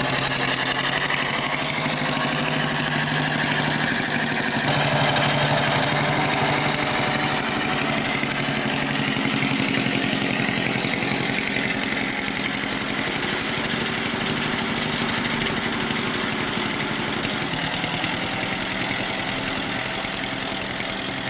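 Farm tractor engine running steadily at low, even revs.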